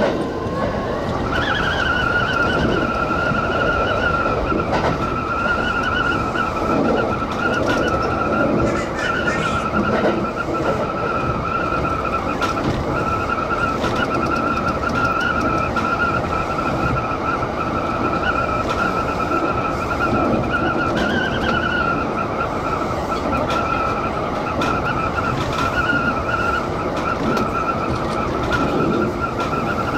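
Kintetsu express train running along the track, with a steady high-pitched squeal over the running noise that steps up in pitch about a second in and wavers slightly throughout.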